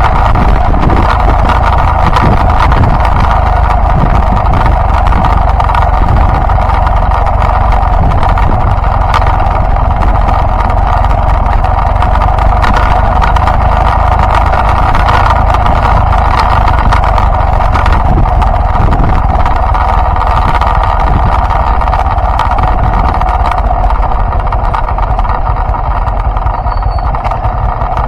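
Yamaha Byson motorcycle's single-cylinder four-stroke engine running steadily under way, mixed with wind and road noise on the microphone, easing a little near the end.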